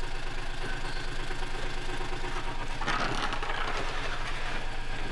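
An engine running steadily with a fast, even pulse, with a louder, rougher noise over it from about three seconds in.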